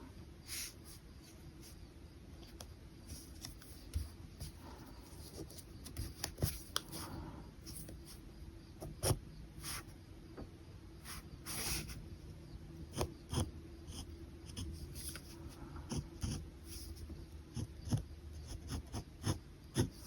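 Pen nib scratching across paper in short, irregular sketching strokes, with scattered sharp ticks as the pen touches down and lifts, over a faint steady hum.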